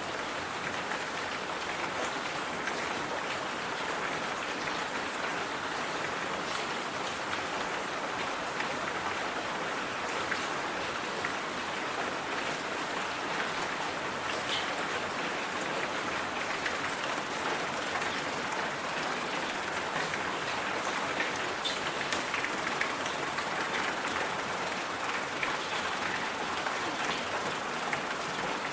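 Steady, even hiss of a white-noise track that sounds like rain, with faint scattered ticks like drops through it.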